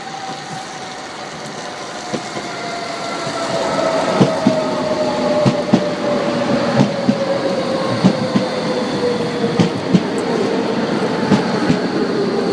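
Docklands Light Railway train pulling in and slowing: an electric whine falls steadily in pitch as it brakes, with wheels knocking over rail joints. It grows louder over the first few seconds as the train nears.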